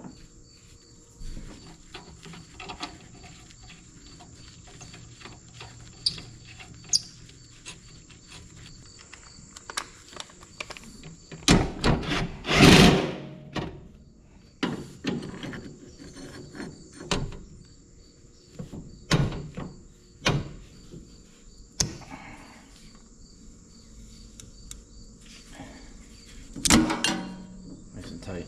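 Scattered knocks and clunks at irregular intervals, with a louder rushing noise about twelve seconds in and another near the end.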